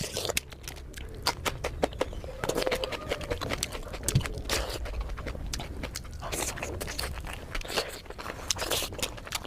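Close-miked chewing and mouth sounds of someone eating: many quick, irregular clicks and smacks as the food is chewed.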